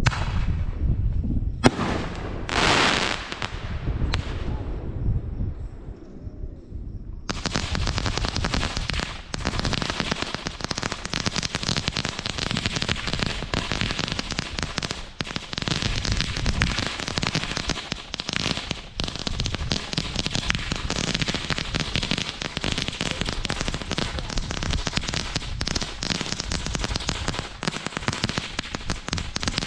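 Fireworks going off: a sharp crack about two seconds in, followed by a brief hissing burst, then from about seven seconds in a dense, continuous crackling of many small rapid reports.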